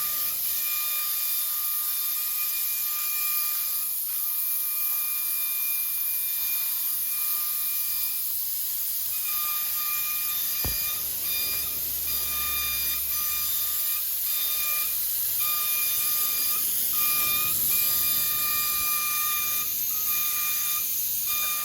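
Paint spray gun hissing steadily as a coat is sprayed in an engine bay. A high whine cuts in and out over the hiss.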